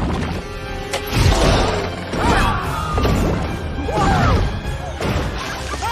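Animated film soundtrack: music with crashes and thuds mixed in.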